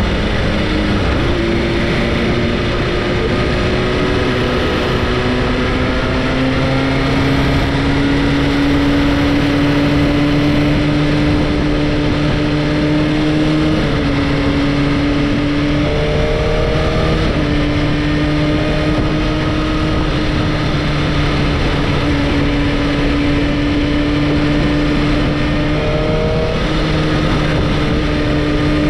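Sport motorcycle engine running at cruising speed under heavy wind rush. Its steady note drifts slowly and jumps in pitch a few times.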